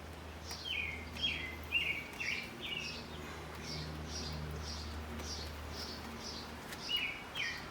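A small bird chirping: a quick run of short, falling chirps, a second group near the end. A steady low hum underneath cuts off shortly before the end.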